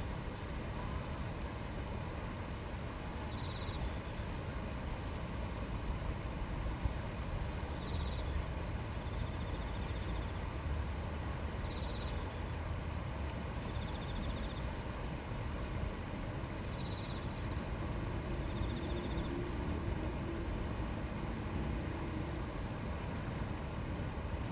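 Shallow river flowing and babbling over stones in a steady wash of water noise. Faint short high calls come through every few seconds, often in pairs.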